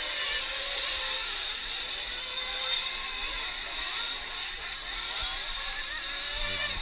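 Nitro RC truck engines, small two-stroke glow engines, running around the track. They make a high-pitched buzzing whose pitch rises and falls as the drivers work the throttle.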